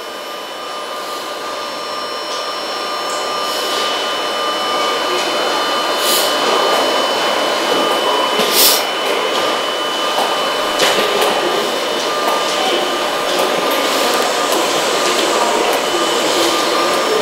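Steady whirring hum of a stopped Kintetsu Iseshima Liner train's onboard equipment, with a thin high tone running through it. It grows louder over the first few seconds, then holds, and a few sharp clicks sound around the middle.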